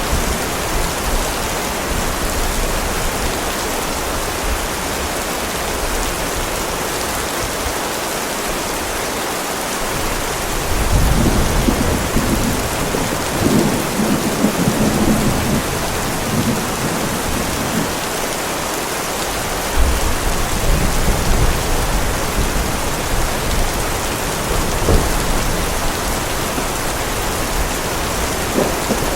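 Heavy rain falling steadily, with rolling thunder rumbling low about eleven seconds in and again briefly near twenty seconds.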